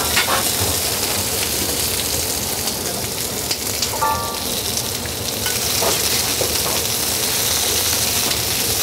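Onion, bell peppers and zucchini sizzling steadily as they stir-fry in olive oil in a frying pan, with occasional light clicks of chopsticks stirring. Shimeji mushrooms are added partway.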